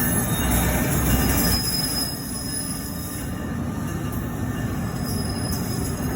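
Train running past on the rails: a steady rumble of wheels and cars with a faint high squeal of wheels on the rail over it.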